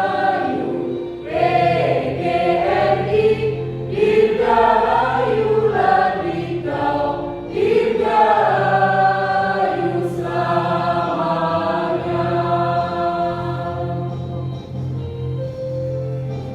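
A choir singing in phrases over steady held low notes of accompaniment, the voices thinning out near the end.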